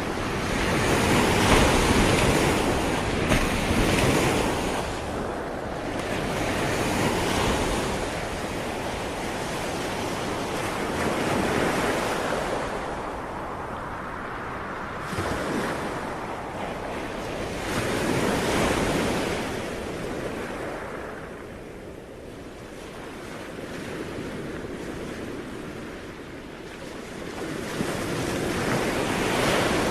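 Sea waves breaking and washing on the shore, the surf swelling and ebbing every few seconds, with a calmer lull a little past the middle before a larger wave near the end.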